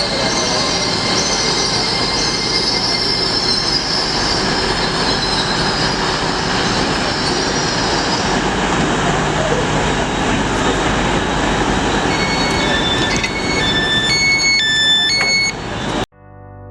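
A train running at the station platform, loud and steady, with a high wheel squeal over the first half. Near the end come a few short high tones stepping between pitches. The train sound cuts off abruptly just before the end, and electric piano music begins.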